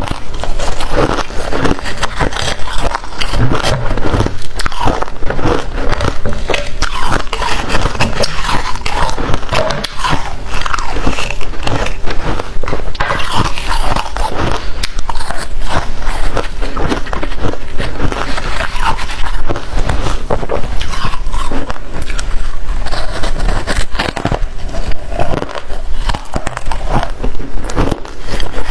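Close-up biting and chewing of crunchy freezer frost, a dense run of crackling crunches that goes on without a break.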